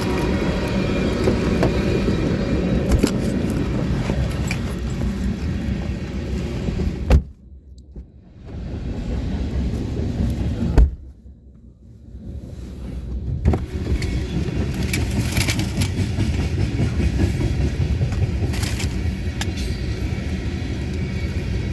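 Steady vehicle rumble and running noise, broken twice by a sharp knock followed by a second or two of near quiet before the rumble returns.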